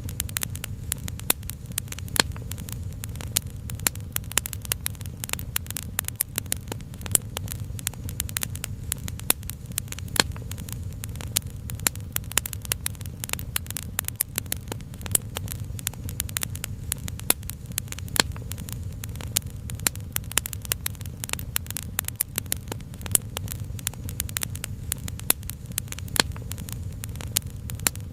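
Crackling wood fire: many irregular sharp pops and snaps, several a second, over a steady low rumble.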